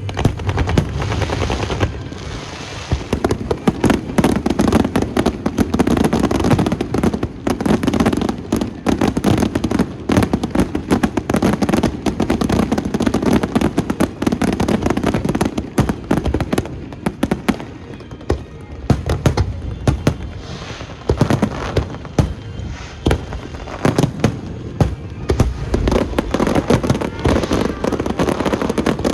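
Aerial fireworks going off in a dense, continuous barrage: rapid overlapping bangs and crackles with no pause.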